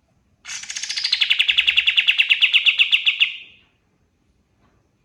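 A kapas tembak songbird singing one rapid trill of about ten notes a second for about three seconds, starting high and settling lower before fading out.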